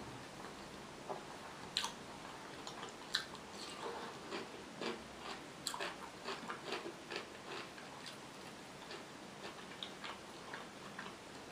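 Close-miked chewing with wet mouth clicks: an uneven run of sharp little clicks and smacks, busiest in the middle, with a few louder snaps.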